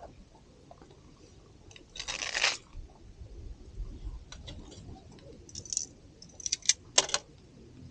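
Camp-cooking handling noises: a half-second rustle or scrape about two seconds in, then scattered light clicks and knocks, with a quick cluster of sharper clicks near the end.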